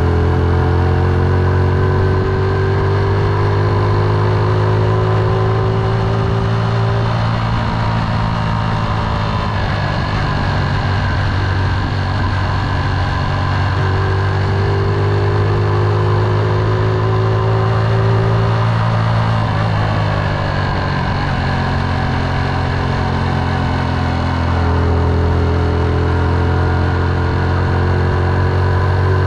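Motorcycle engine running under way, with a steady low drone. Its pitch climbs slowly over long stretches and drops back about 7, 19 and 24 seconds in.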